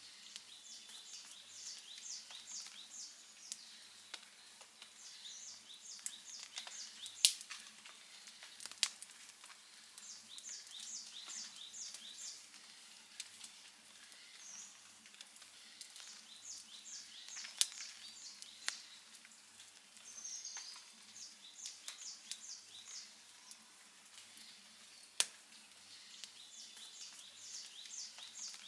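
Wood fire crackling, with scattered sharp pops; the loudest come about seven, nine, eighteen and twenty-five seconds in. Behind it, a high chirping trill repeats in short groups every few seconds.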